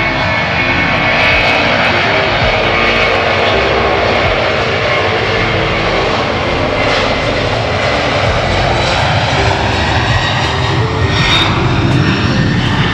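Jet airliner's engines running loud and steady, with a whine that rises in pitch over the second half.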